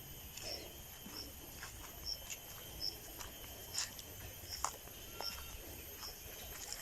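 Faint, regular short high chirps from a small animal, about one every three-quarters of a second, with a few light clicks between them.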